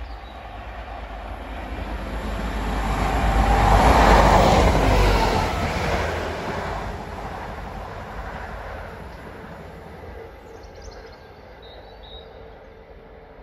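Diesel multiple-unit passenger train running through the station without stopping. Its rumble and wheel noise build to a peak about four seconds in as it passes, then fade steadily as it pulls away.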